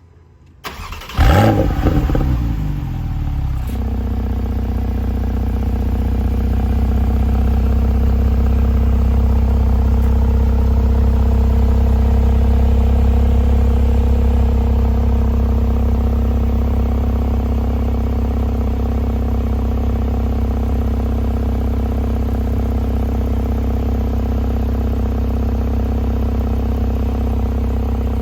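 2019 Porsche 911 (991) Carrera T's twin-turbocharged flat-six being started: the starter turns it over about a second in, it fires with a loud rev flare, then settles into a steady idle that holds to the end.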